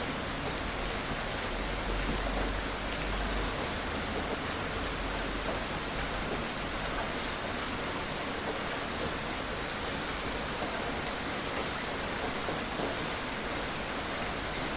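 Steady gentle rain, an even hiss with scattered individual drop taps.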